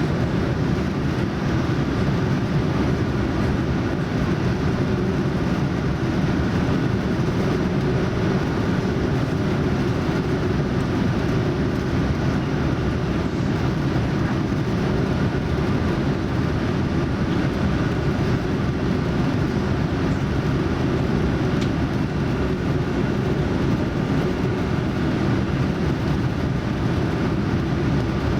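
Steady cabin noise of a Boeing 787-9 airliner on approach: an even rumble of engines and airflow heard from inside the cabin, with faint steady tones above it.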